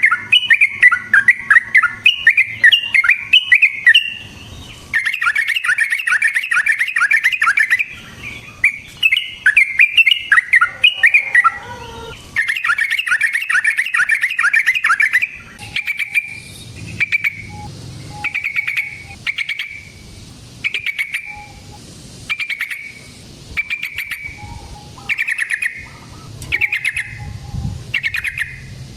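Yellow-vented bulbul (trucukan) singing loudly: several bursts of fast, bubbling chatter, then from about halfway a string of short phrases repeated roughly once a second.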